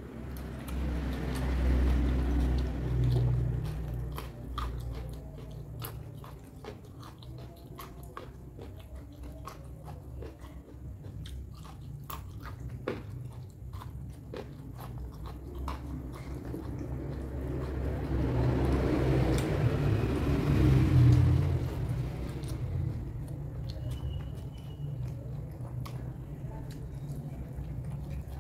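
Close-up mukbang chewing and crunching of raw vegetables, with many crisp crackles over wet mouth sounds. It grows louder briefly near the start and again about two-thirds of the way through.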